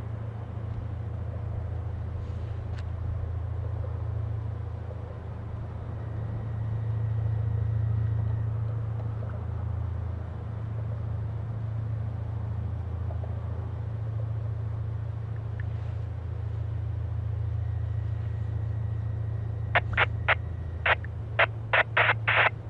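Steady low rumble of a tugboat's diesel engine pushing a barge. Near the end comes a quick run of about eight short, sharp sounds.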